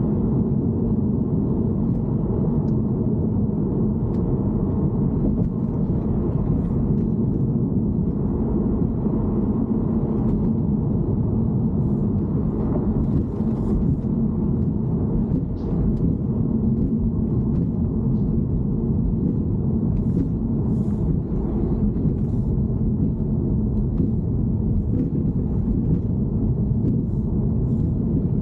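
Steady low rumble of a BMW E90 on the move, with faint scattered light ticks over it.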